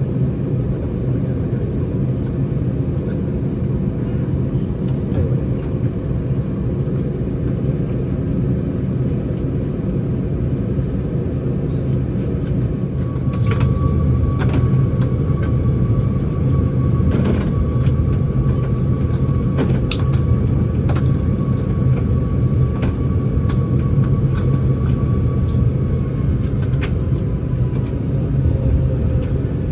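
Cabin noise of an Airbus A319 with its CFM56 engines running: a steady low rumble. About halfway through it grows a little louder, and a steady high whine comes in along with scattered sharp knocks and rattles. The whine fades out a few seconds before the end.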